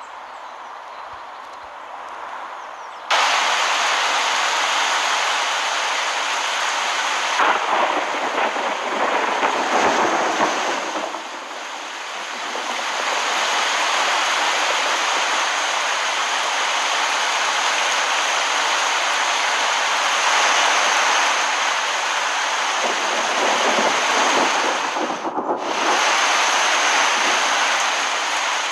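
Heavy rain: a loud, steady hiss that starts suddenly about three seconds in, rougher and uneven for a few seconds around the eight-to-twelve-second mark.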